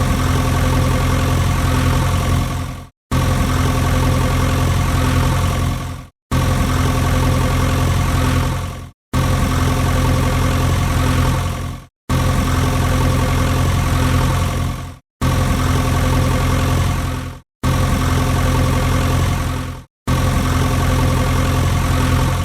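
Tractor engine idling, a loud steady chugging, in a repeated loop of segments about three seconds long, each cut off abruptly with a short break before it starts again.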